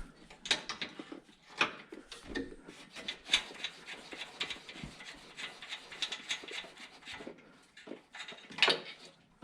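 Irregular clicks, knocks and scrapes of hand tools working on metal vehicle parts, with a louder knock about three seconds in and another near the end.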